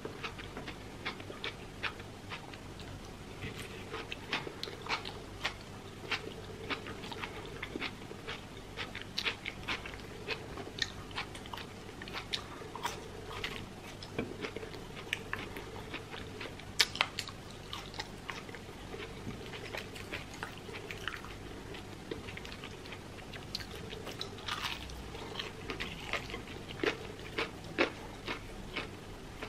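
Close-miked eating: chewing and crunching of fried chicken and French fries, a dense run of small crisp clicks and bites, with one louder crunch around the middle.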